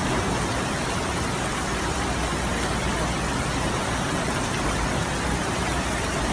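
Heavy rain and fast-flowing floodwater making a steady, even hiss.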